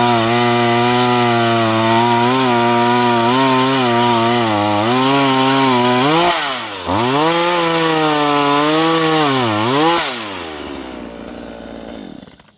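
Craftsman 18-inch two-stroke gas chainsaw running at high revs through a log. The engine pitch sags and recovers twice under load, then the throttle is released and the engine winds down toward idle near the end.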